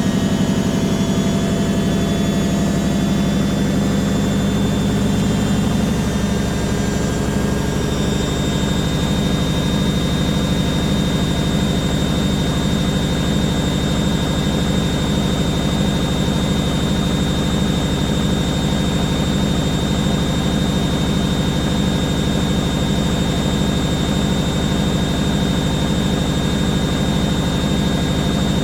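Candy Aquamatic 100F washing machine in its final spin at 800 rpm: a steady drum hum and motor whine. The whine rises slightly in pitch over the first several seconds, then holds steady as the drum stays at speed.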